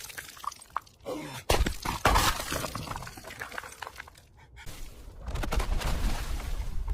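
Ice being smashed through: several hard impacts with cracking and shattering, the loudest about a second and a half in. From about five seconds in, a steady low rumble takes over.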